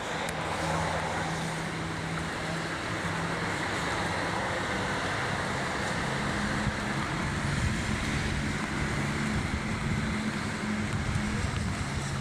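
Steady hiss of rain with a vehicle engine running underneath as a low, steady hum that rises slightly in pitch about halfway through.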